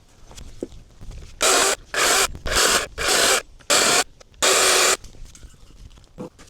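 Dewalt brushless battery chainsaw running in six short bursts of roughly half a second each as it chops up wood, each starting and stopping sharply, with quieter scraping in between.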